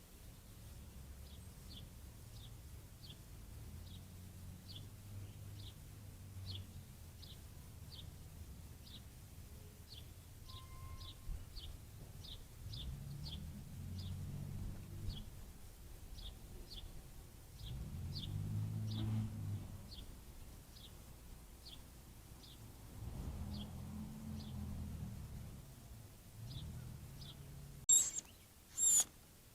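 A bird repeating a short, high, down-slurred chirp about twice a second, over a low rumble that swells and fades. Two sharp loud clicks near the end.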